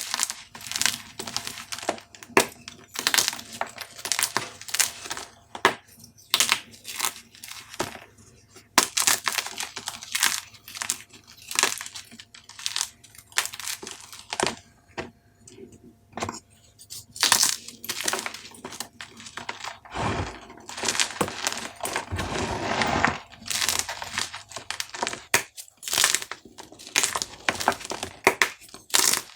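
Dyed gym chalk cubes being crushed, giving a quick run of sharp, crisp crunches and crackles. About two-thirds of the way through, a longer stretch of dense crumbling as a piece breaks down into powder.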